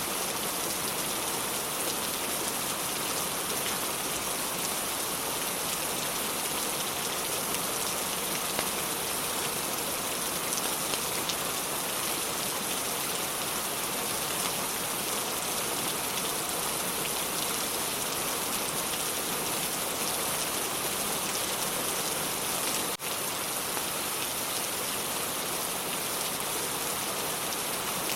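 Steady rain falling, an even hiss of drops on a surface, with one brief click and dropout about three-quarters of the way through.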